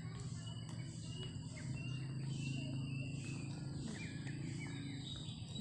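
Small birds chirping in many short, quick calls, over a steady low hum.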